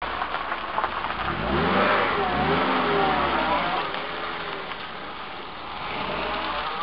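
Small hatchback car's engine revving as the car accelerates and turns close by, its pitch climbing and dropping several times. It then settles to a lower, quieter drone as the car pulls away.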